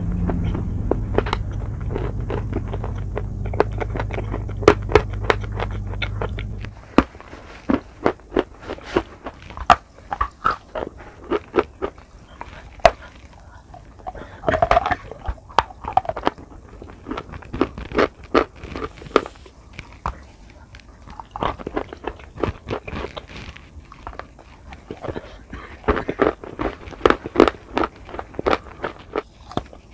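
Close-miked crunching and chewing of edible chalk: many sharp bites and crumbly crackles. A steady low hum lies under the first seven seconds or so, then stops suddenly, leaving the crunches alone.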